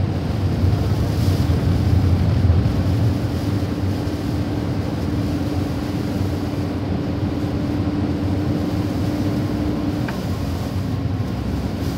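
Dust-storm wind blowing hard across the microphone: a steady rushing noise with heavy low buffeting, strongest in the first few seconds, and a faint steady hum underneath through the middle.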